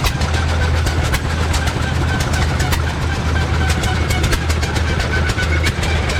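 An engine running steadily with a low hum, over a fast, irregular clicking clatter.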